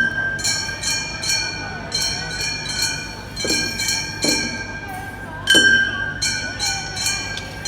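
Gion-bayashi festival music: small brass hand gongs (kane) struck over and over, about two strikes a second, each one ringing. The loudest strike comes about five and a half seconds in. A faint wavering flute line or voices sits underneath.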